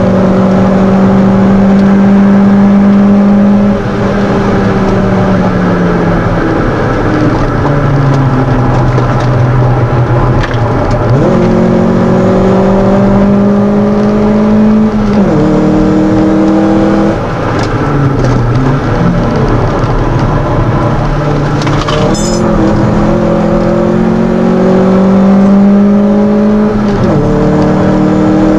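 A 1997 Mitsubishi Colt 1600's engine heard from inside the cabin while being driven hard on track: held at high revs at first, then falling away as the driver lifts off, then climbing through the gears again, with the pitch dropping suddenly at each upshift, about halfway through and again near the end. A single short click sounds a little past the middle.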